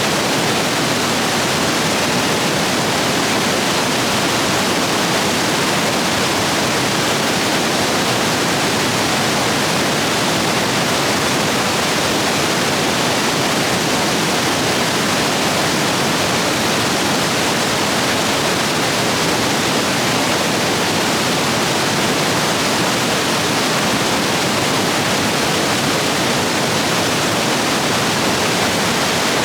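Rain-swollen stream rapids rushing over rocks: a loud, steady roar of water.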